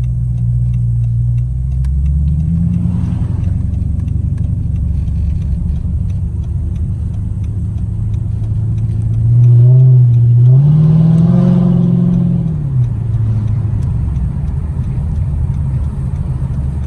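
A car engine running under way, its pitch rising as it accelerates about two seconds in, then again more loudly near the middle before easing off.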